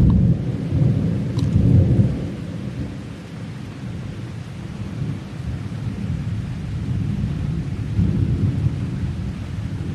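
Thunder rolling, loudest in the first two seconds, then easing to a lower rumble that carries on, over steady rain.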